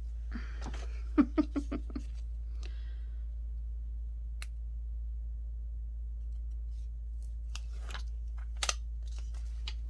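Scissors snipping paper: a quick run of about five snips about a second in, then a few separate snips later on.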